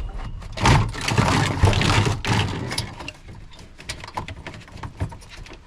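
Knocks, rattles and clatter of fridge parts and metal being handled and pulled about, loudest in the first two and a half seconds, then scattered sharp knocks.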